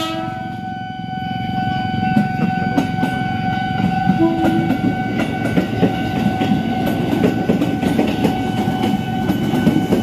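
Electric commuter train passing close by: the tail of its horn blast cuts off right at the start, then the wheels clatter rapidly over the rail joints, louder from about two seconds in, over a steady whine.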